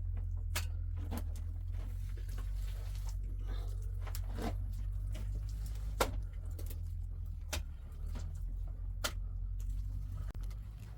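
A series of sharp knocks, about six at uneven intervals, over a steady low hum.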